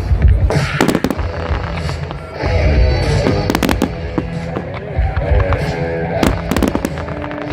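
Fireworks going off repeatedly, with clusters of sharp bangs and crackles over a low rumble.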